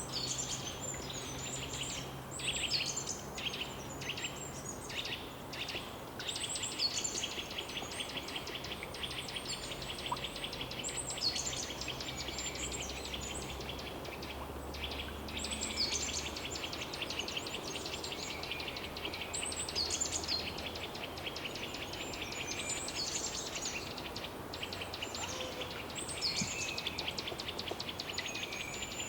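Several songbirds singing and chirping in quick, repeated phrases, with short high notes that fall in pitch every second or two over a steady outdoor hiss.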